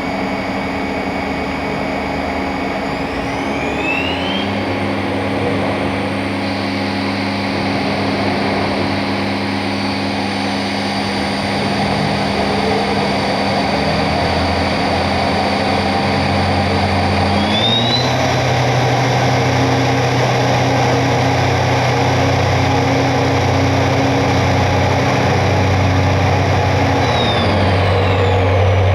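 Fadal vertical machining centre's spindle running at steady speed with a whine made of several held tones. It speeds up to a higher pitch twice, a few seconds in and again about halfway, then slows down near the end.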